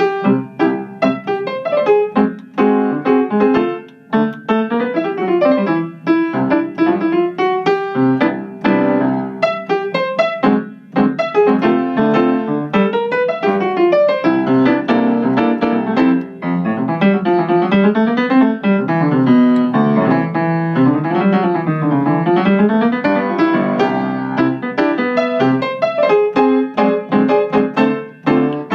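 Piano playing continuously: many quickly struck notes and chords, with rapid runs up and down the keyboard in the middle.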